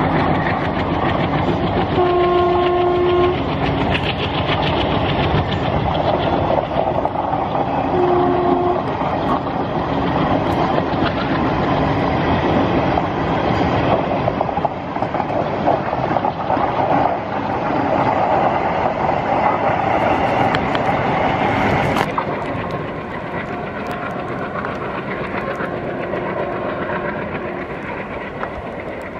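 Passenger train running along the rails with a steady rumble and wheel clatter; its locomotive horn sounds a blast of over a second about 2 s in and a shorter one about 8 s in. About 22 s in the sound drops abruptly to a quieter train rumble with a faint horn.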